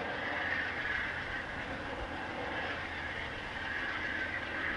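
Amtrak passenger train rolling along the rails, a steady hiss and rumble from its wheels that swells and eases slightly.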